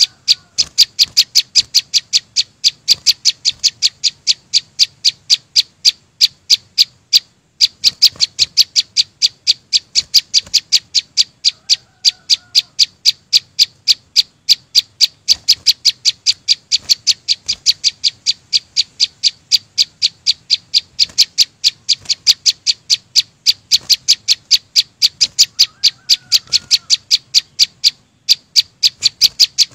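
A small songbird, the chim sâu xanh, repeats a short high note about three or four times a second, very evenly and almost without pause. Fainter, lower chirps of another bird come in now and then.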